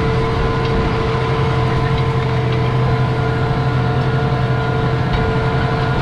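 Large farm tractor's diesel engine running at steady, unchanging revs, a constant low hum.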